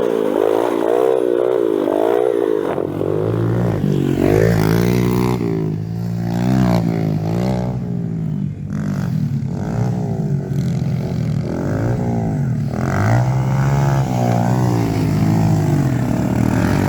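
Single-cylinder four-stroke pit bike engines revving up and down as the throttle is opened and closed, their pitch repeatedly rising and falling. A second, lower-pitched engine joins about three seconds in.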